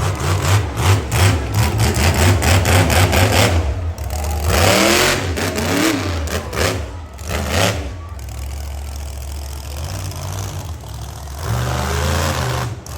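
Monster truck engine revving hard and running under load, with a rapid stuttering crackle in the first few seconds and rising revs around the middle.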